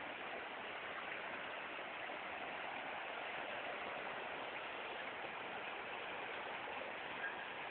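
Swollen floodwater rushing through an overflowing ravine, a steady, unbroken rushing noise.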